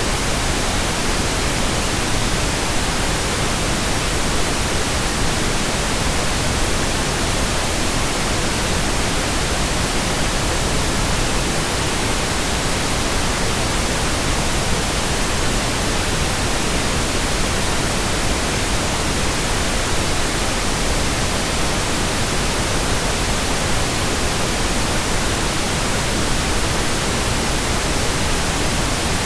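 Steady white noise: an even, unchanging hiss spread across the whole range from deep to very high pitches, at a constant level.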